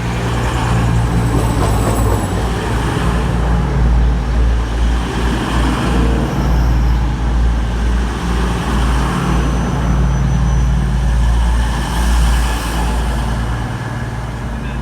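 Class 222 Meridian diesel-electric multiple unit creeping slowly into the platform, its underfloor diesel engines running with a steady low drone and rumble, with a few faint high-pitched squeals over the top.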